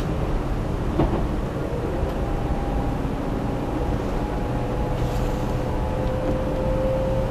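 Running noise of a JR 300 series Shinkansen heard from inside the passenger car at speed: a steady low rumble with a faint whine that rises slowly in pitch, and a light knock about a second in.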